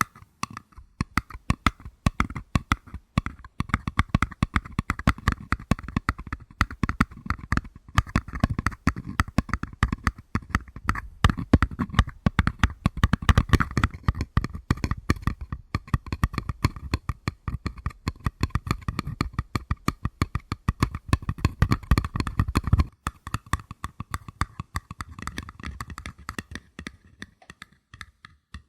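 Paper cups tapped rapidly by hand, a dense, fast run of soft taps. About 23 seconds in the tapping pauses briefly and then goes on lighter and thinner, with less low thud.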